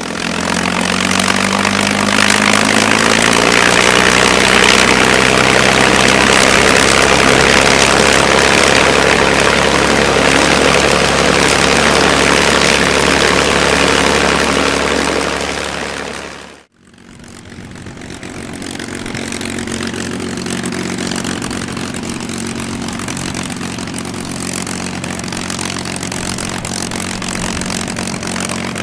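Packard-built V-1650 supercharged Merlin V12 of a P-51D Mustang revving up, its note rising over the first few seconds into a loud, sustained high-power run. A little past halfway it tapers and breaks off abruptly, then runs again at a lower, steady speed.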